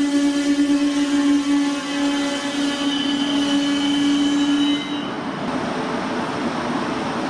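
Regional-Express train passing: a steady, loud hum with many overtones, which stops about five seconds in, then the even rushing noise of the carriages rolling along the track.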